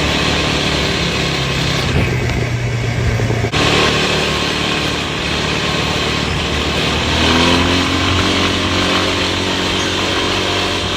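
Dirt bike engine running, its pitch rising from about seven seconds in as it revs up.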